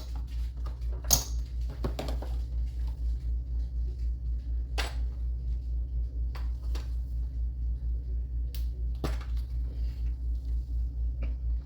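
Scattered sharp clicks and taps of silver coins and rounds being handled during counting, over a steady, evenly pulsing low hum.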